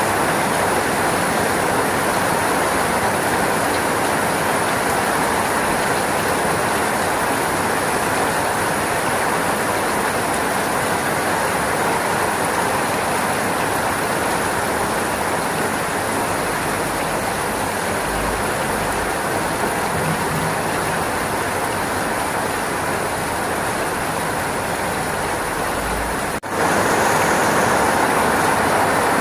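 Steady, heavy rainfall, an even hiss without a beat. Near the end it drops out for a split second and comes back slightly louder.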